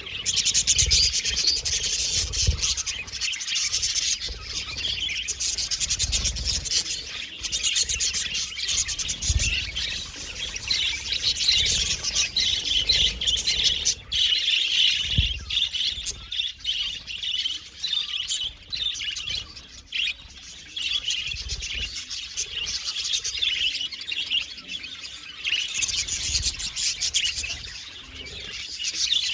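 Budgerigars chattering and chirping continuously, a dense run of rapid warbling notes with occasional low thumps.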